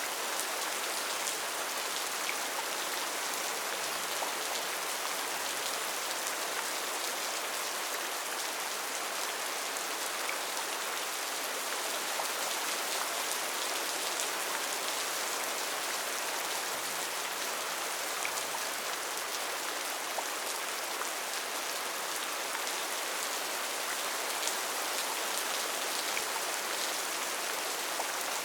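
Steady rainfall in a rainforest: an even hiss of rain with scattered drops ticking on leaves and surfaces.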